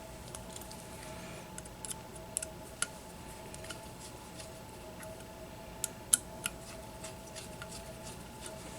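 Scattered small clicks and light taps of tools and small parts being handled at a workbench, with a few sharper ones close together about six seconds in, over a steady faint hum.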